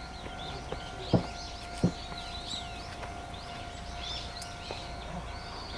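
Small birds chirping busily over a steady faint hum, with two short dull knocks about a second and nearly two seconds in.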